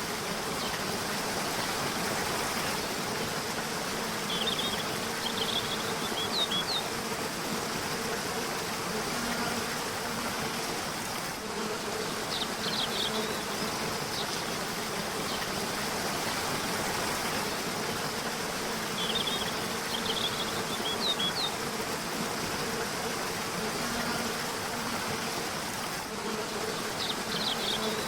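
River water rushing steadily, with short bursts of high bird chirps every several seconds and a faint low humming buzz underneath.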